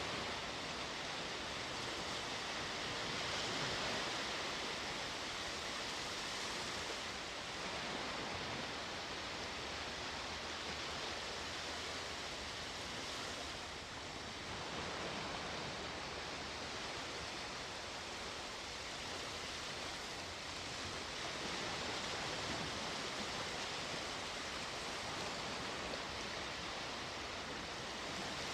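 Sea waves washing onto the shore, a continuous surf hiss that swells and eases slowly.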